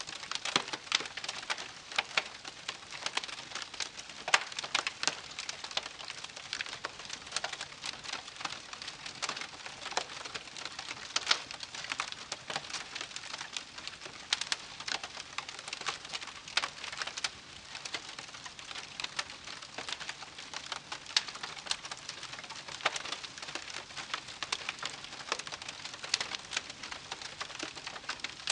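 Wood campfire crackling, with dense, irregular sharp pops and snaps over a soft hiss.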